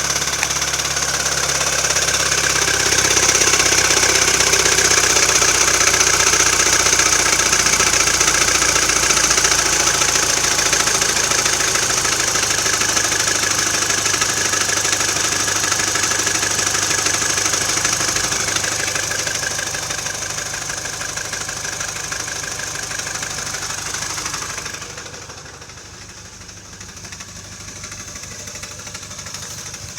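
Mini Cooper R56 (non-S) engine running with the abnormal noise that its owner hears intermittently, every two to three weeks, and that usually settles after a few minutes of running. It goes much quieter near the end.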